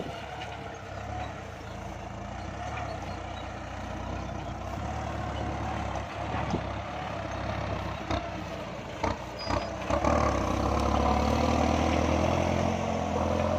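Kubota MU5702 tractor's diesel engine running steadily while ploughing a rutted paddy, growing louder about ten seconds in, with a few short knocks shortly before.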